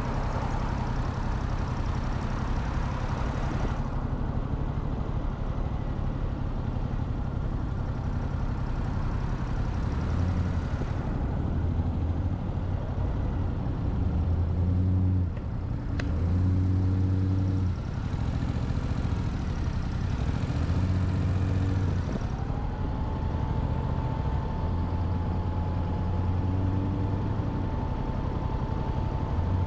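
Motorcycle engine running as the bike rides along, its note rising and falling in steps with throttle and gear changes. A rushing wind and road noise fades and returns a few times. A single sharp click comes a little past halfway.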